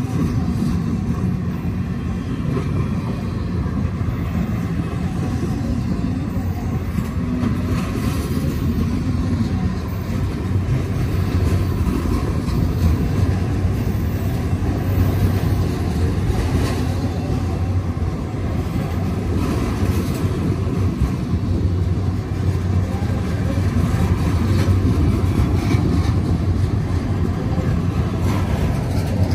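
Freight train cars rolling past: a loud, steady rumble of steel wheels on the rails as empty well cars and then autorack cars go by.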